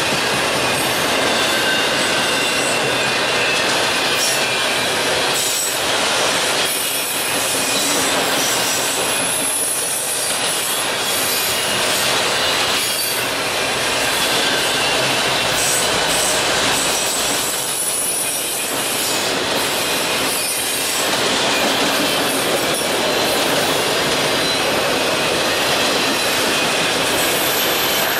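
A long string of multilevel autorack freight cars rolling past close by: a steady, loud rumble and rattle of the cars, with thin, high wheel squeal over it and an occasional clatter of wheels over the rails.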